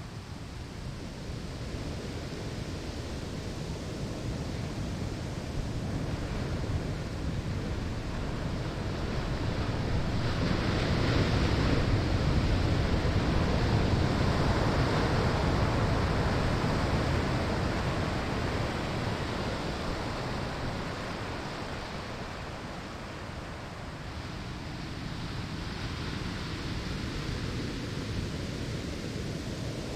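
Ocean waves breaking on a sandy shore: a steady wash of surf that builds as a wave breaks about ten seconds in, stays at its loudest for several seconds, then recedes before the next swell begins near the end.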